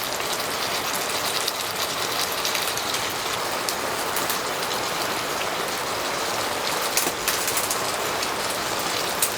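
Heavy rain pattering steadily on tent fabric, with scattered louder single drops.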